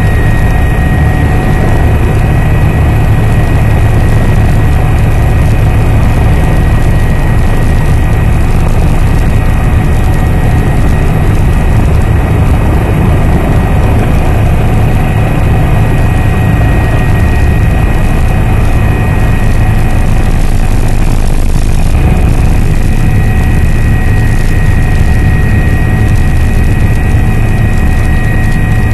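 Helicopter in flight heard from inside the cabin: a loud, steady rotor and turbine drone with a deep throb and a constant high whine.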